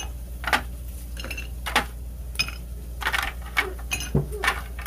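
Irregular clinks and taps of utensils against dishes, about eight in a few seconds, a few of them ringing briefly.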